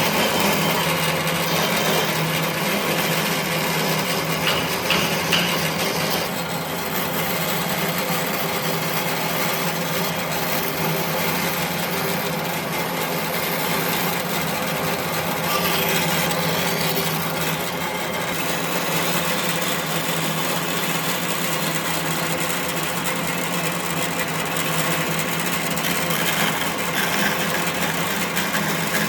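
A power tool running steadily against wood, a constant motor hum under a rough, continuous cutting-and-rubbing noise.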